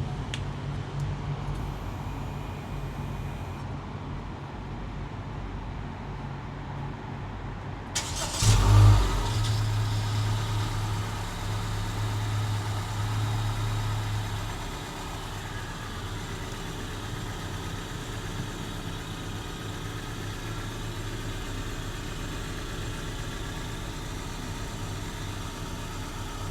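Honda Civic engine on a cold start: the starter cranks about eight seconds in and the engine catches with a brief flare, then holds a high fast idle for several seconds. After that it drops to a quieter, steady idle. A low hum runs before the start.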